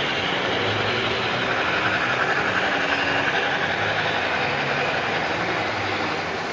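Model trains running on a layout, a steady rumble with a faint whine that swells a little in the middle.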